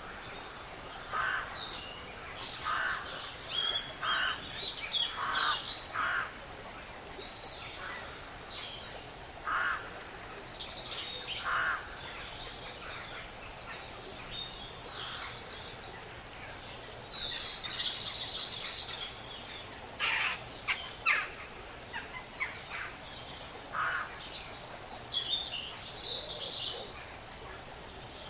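Woodland birds chirping and twittering in short, scattered calls over a steady background hiss, with a cluster of sharp clicks about twenty seconds in.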